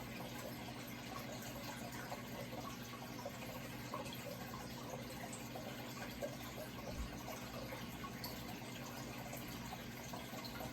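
Running water trickling and splashing steadily, with a low steady hum beneath it.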